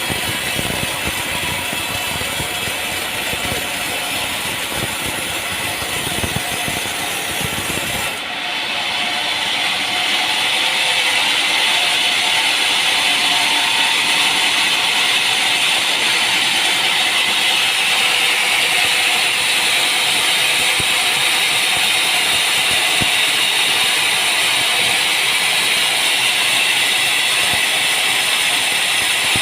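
Sawmill machinery running with a dense rattling clatter. About eight seconds in it switches abruptly to a steady, high hiss.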